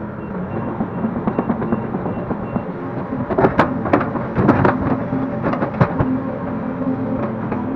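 Link-Belt 145X3E hydraulic excavator's diesel engine running under load, with a cluster of loud clattering impacts from the bucket and its load of earth between about three and six seconds in.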